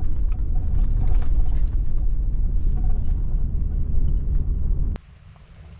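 Low, steady rumble of a truck driving, cutting off suddenly near the end to a quieter hiss.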